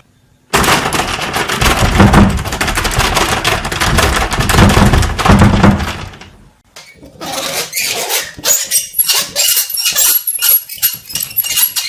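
Two horror sound effects in a row: a dense, noisy rush with a heavy low rumble for about six seconds, then, after a brief pause, a rapid irregular crackling and clicking.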